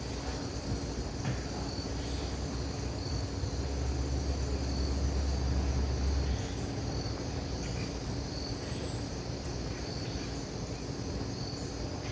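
Outdoor campsite ambience: insects chirping steadily in a high band, with a low rumble that swells for about three seconds near the middle.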